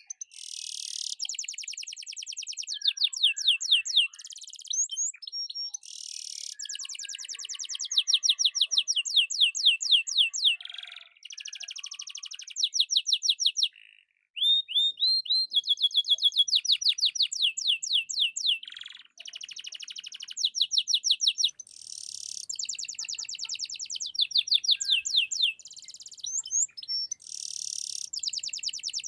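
Domestic canary singing continuously: high-pitched song made of phrases of fast repeated notes and trills, one phrase following another with only brief breaks.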